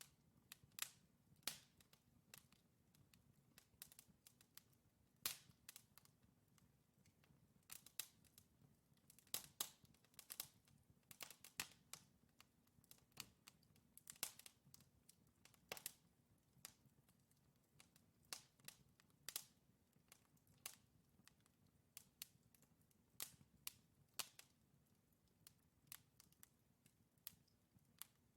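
Wood logs burning in a fireplace, crackling with irregular sharp pops and snaps, several loud ones among many small ticks, over a faint low steady hum.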